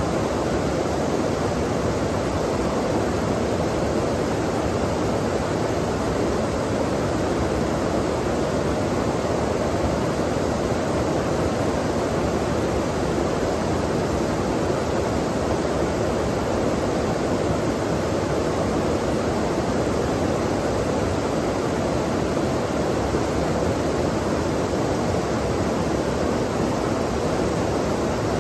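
Flowing water rushing steadily, a dense, even noise with nothing else standing out.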